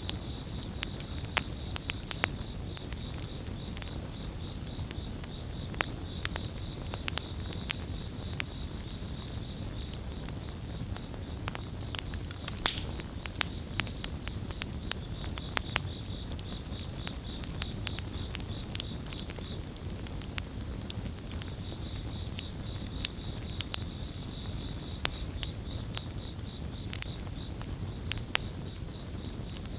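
Campfire crackling, with irregular sharp pops over a low steady rumble. Crickets chirp in a continuous high pulsing trill that drops out briefly about two-thirds of the way through.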